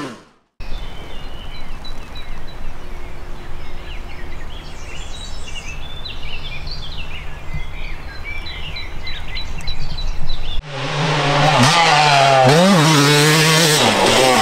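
Yamaha YZ250 single-cylinder two-stroke engine idling with a low, steady rumble while birds chirp. About ten seconds in it cuts to the engine revving hard, its pitch rising and falling again and again as the bike is ridden, and this is the loudest part.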